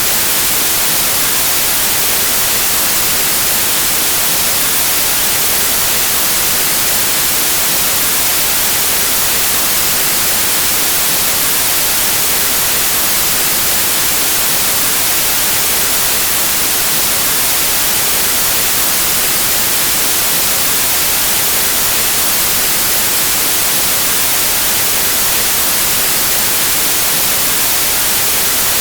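Steady white noise: an even, unbroken static hiss, loudest in the high end.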